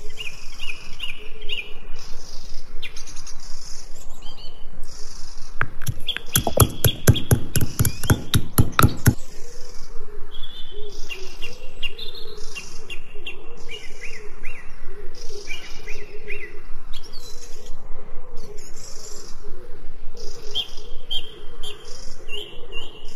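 Birds chirping in a steady stream of short, high calls, with a quick run of knocks, about five a second, lasting roughly three seconds in the middle.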